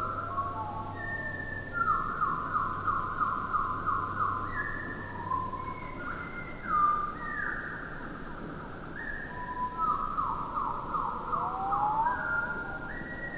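Songbird song played back at a quarter speed, so that it comes out low and drawn out: long whistled notes, slow glides and two long buzzy trills, several phrases overlapping, with a rising swoop near the end.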